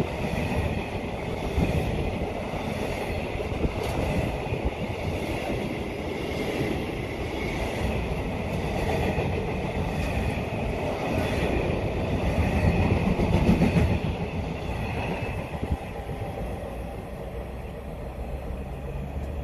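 Container wagons of a freight train rolling past at speed, a steady loud noise of wheels on rail. It dies away over the last few seconds as the end of the train passes.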